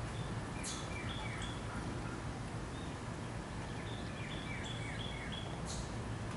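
A small songbird singing two short phrases of quick, high, down-slurred chirps, about a second in and again around four seconds in, over a steady low outdoor rumble.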